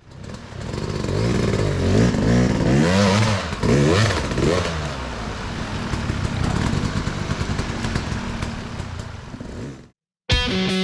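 Off-road motorcycle engine revved up and down several times, then running more steadily before it cuts off abruptly near the end.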